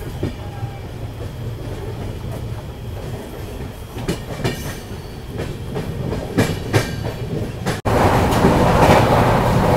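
Moving passenger train's coach running along the track: a steady low rumble with wheels clicking over rail joints in pairs. About eight seconds in it changes abruptly to a louder, denser rushing rattle.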